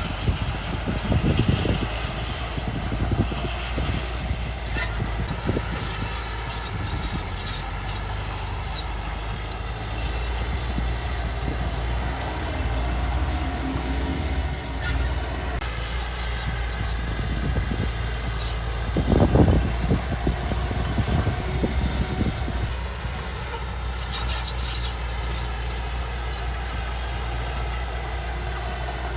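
Heavy diesel earthmoving machinery running steadily with a deep engine rumble. Brief high-pitched squeals come three times, and there is one louder clank about two-thirds of the way in.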